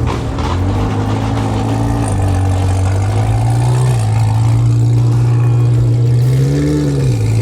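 Car engine idling steadily, with a short throttle blip that rises and falls about six and a half seconds in.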